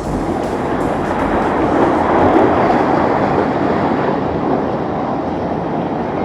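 A powerboat running through rough inlet water: a steady, dense rush of engine noise, splashing water and wind.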